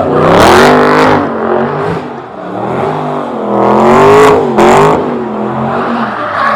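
Car engine revved hard again and again, its pitch rising and falling in waves, with a brief drop about two seconds in.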